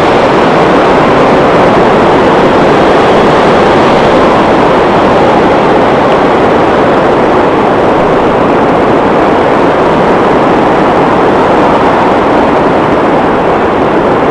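Strong blizzard wind blowing, a loud, steady rush of noise.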